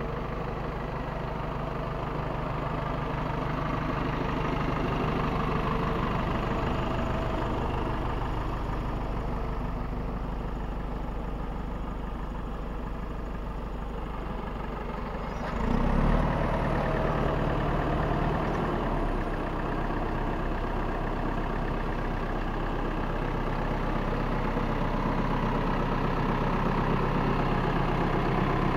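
LKT 81 forestry skidder's diesel engine running steadily at idle, briefly getting louder a little over halfway through before settling back.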